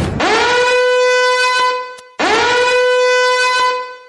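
Two long blasts of a war horn, each swooping up in pitch at the start and then held on one steady note for about two seconds.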